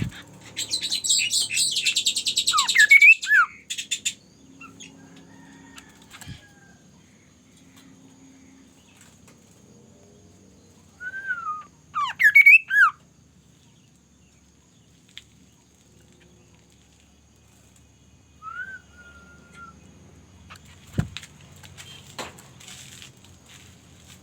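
A bird calling: short whistled calls that sweep up and down, with a loud, harsh rapid rattle lasting about three seconds near the start and another loud cluster of calls about halfway through.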